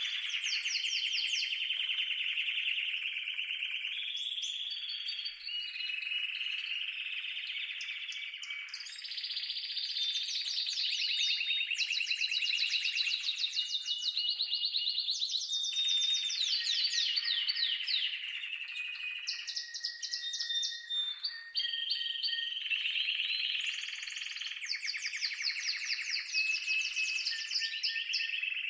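Canary singing: one continuous song of rapid trills, each a run of one note repeated fast, switching to a new note every second or two.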